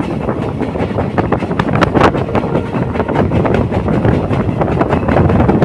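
Passenger train running at speed, heard from an open door or window: the steady rumble and rattle of the coaches' wheels on the track, with wind buffeting the microphone and a sharper knock about two seconds in.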